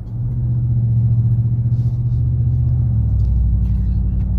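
A 2019 Ram 1500's 5.7-litre Hemi V8 with the muffler deleted for a straight pipe, rumbling loudly while the truck is driven. About three seconds in, the engine note drops to a deeper drone.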